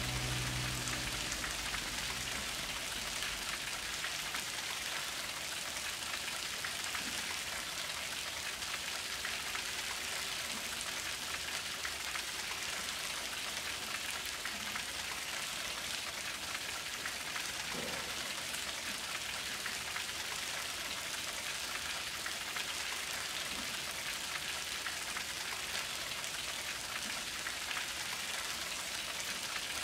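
Steady rain falling, an even hiss of many drops. A low musical tone dies away just after the start.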